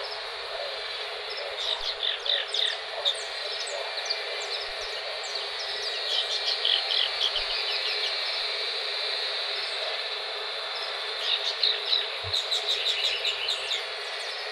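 Birds chirping in three bouts of quick, short, high calls over a steady background hiss of outdoor ambience.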